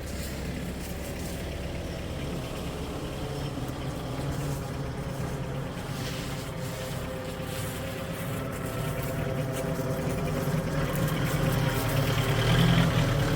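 Diesel engine of a Hyundai 30D-9 three-ton forklift running steadily, getting louder over the last few seconds.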